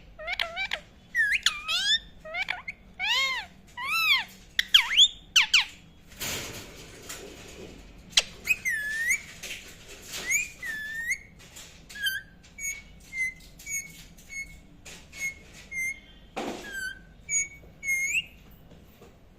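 Indian ringneck parrot chirping and whistling: a fast run of arched whistled calls for the first six seconds, then, after a brief rushing noise, short hooked chirps repeated about every half second to a second.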